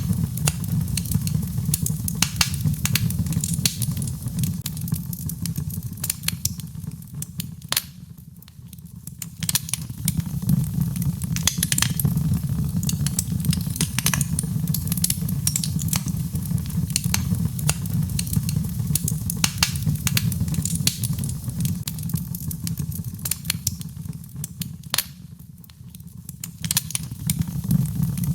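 Birchwood burning in a fireplace: frequent sharp crackles and pops over a low steady rumble of the flames. The rumble eases off for about a second twice, once around eight seconds in and again about three seconds before the end.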